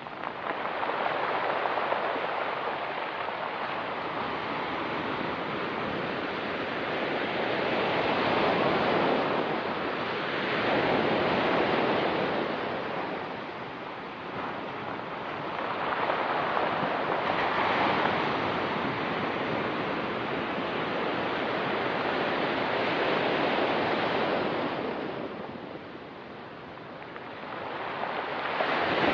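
Ocean surf washing onto a rocky beach, a steady rush that swells and recedes with each wave every several seconds.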